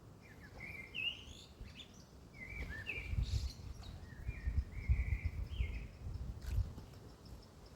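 A European robin singing a string of short, high chirping phrases, over a low rumble of wind on the microphone.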